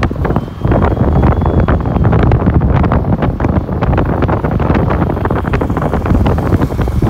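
Wind buffeting the microphone on a moving motorcycle taxi, over the rumble of the motorcycle's engine and road noise.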